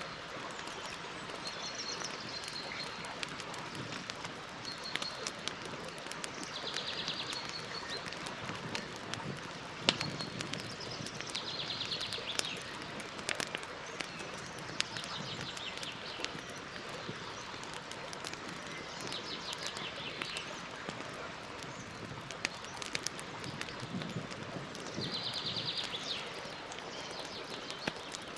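Campfire crackling over a steady hiss, with sharp pops scattered through it, the loudest about ten seconds in. Birds call in the background: a few short high chirps near the start and a rapid high trill repeated every six seconds or so.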